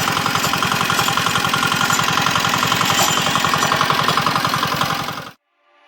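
Small 4 hp single-cylinder diesel engine running steadily with a fast, even firing beat. It cuts off suddenly about five seconds in.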